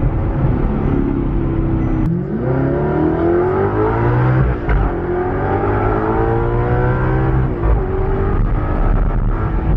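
Car engine accelerating hard through the gears: its pitch climbs, drops sharply at each upshift about two, five and eight seconds in, then climbs again.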